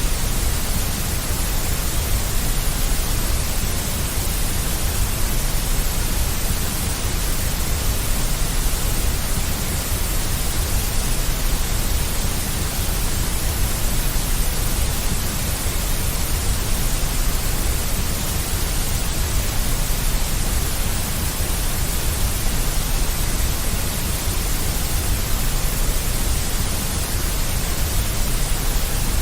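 Steady deep white noise: an even, unchanging hiss with a heavy low rumble underneath.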